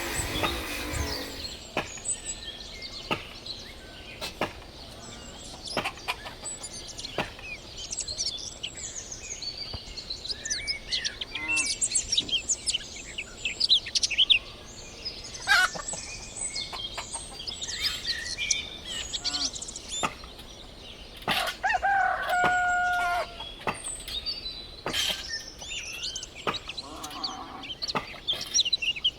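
Birds calling and chirping throughout, with one longer held call of about two seconds a little past two-thirds of the way through, amid scattered sharp knocks.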